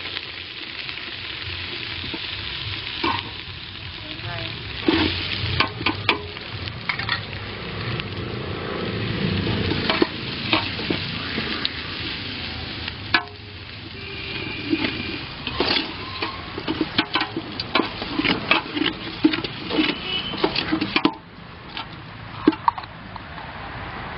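Chopped onions frying and sizzling in hot oil in an aluminium pot, the first stage of a biryani masala, with a steel slotted ladle scraping and clinking against the pot as it stirs, in many short strokes.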